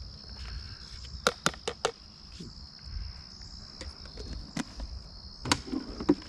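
Crickets chirring steadily and high-pitched. Over this come sharp clicks and taps of a utensil against a bowl: four quick ones between about one and two seconds in, then a few more near the end.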